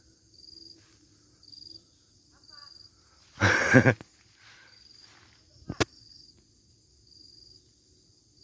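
Insects chirping with a high, even pulse about once a second. A loud burst of noise lasts about half a second some three and a half seconds in, and a single sharp click comes about two seconds later.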